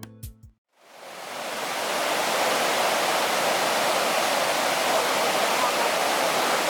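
Steady rushing of a waterfall, fading in about a second in and then holding even. A few guitar notes of background music end just before it.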